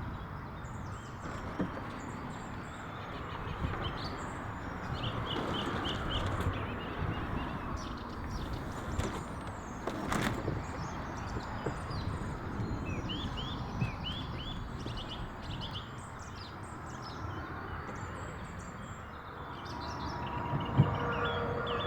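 Small birds chirping in short quick runs over a steady rumble of road traffic that swells and fades as vehicles pass. There are a few sharp knocks, the loudest near the end.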